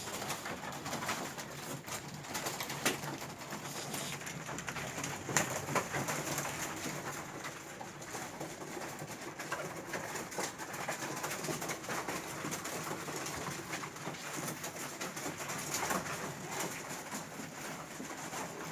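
A flock of pigeons cooing, with many small sharp clicks and taps scattered among the coos.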